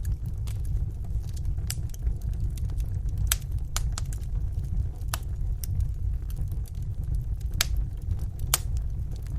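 Wood fire burning in a fireplace: a steady low rumble of flame with sharp, irregular crackles and pops, roughly one a second.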